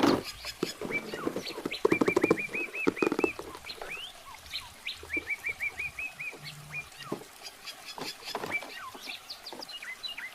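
Birds chirping, including quick runs of short rising notes repeated several times a second. Light clicks and rustling handling noises come through the chirping, loudest at the start and about two seconds in.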